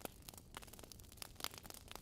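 Wood logs burning in a fireplace, crackling with irregular sharp pops over a soft low hiss; one louder pop right at the start and another about one and a half seconds in.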